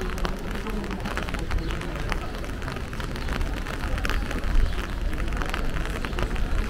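Rain pattering as dense, irregular small taps, over a steady low rumble, with one louder tap about four and a half seconds in.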